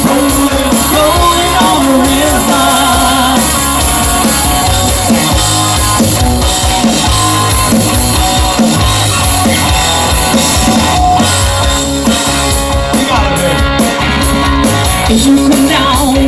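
A live rock band playing, with drums, electric guitar and a singer, loud and continuous.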